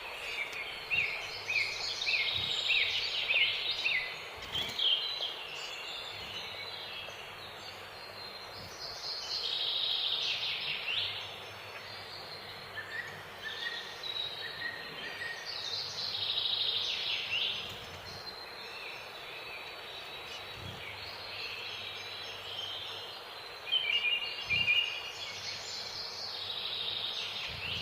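Small finches chirping and twittering in short repeated calls and bursts of song, over a steady background hiss.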